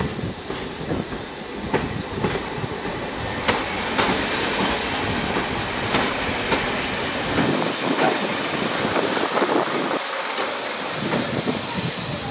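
A green first-generation diesel multiple unit running slowly past, its wheels clicking over the rail joints over a steady hiss and rumble. The clicks come thickest through the middle as the carriages go by.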